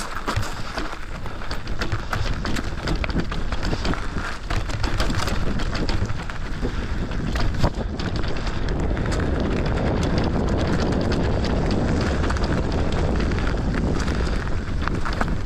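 FEDDZ PF1 electric bike ridden down a rough trail: tyres crunching over rocks and roots with constant rattling clicks and knocks from the bike. Wind buffets the microphone, and from about halfway through the rumble and rush grow steadier and louder.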